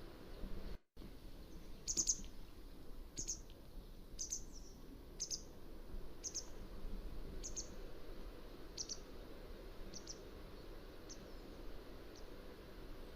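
Mountain wagtail calling: a series of short, high notes about one a second, growing fainter toward the end, over a steady low background hiss.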